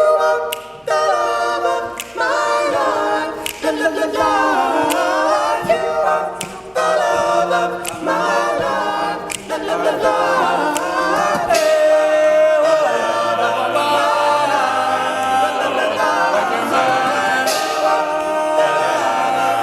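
All-male a cappella group singing a wordless, close-harmony introduction, with vocal percussion hits marking the beat.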